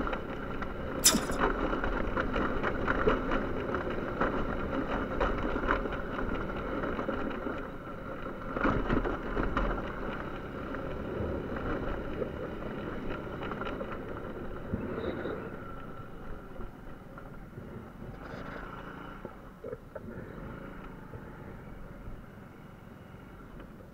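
Small motorcycle engine running while being ridden, with scattered sharp knocks from a rough track, the loudest about a second in. The engine sound grows quieter over the second half.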